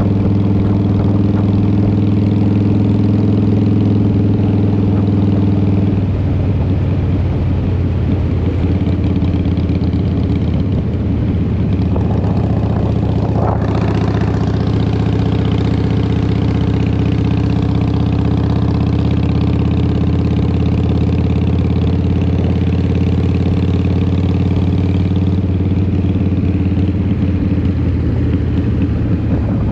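A 2003 Harley-Davidson Fat Boy's Twin Cam 88 V-twin running through Vance & Hines exhaust while under way, loud and steady, with the engine note changing about six seconds in. A brief sharper noise comes about halfway through.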